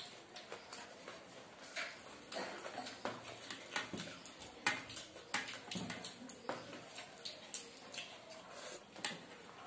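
Mouth sounds of two people eating rice and chicken curry by hand: wet chewing and lip smacks, with squishes from fingers mixing the rice. They come as an irregular run of small clicks and smacks.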